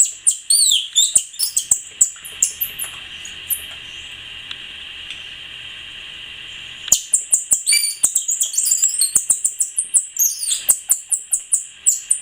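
A man imitating birdsong: rapid high chirps and trills, one burst over the first three seconds or so and a denser one from about seven seconds in.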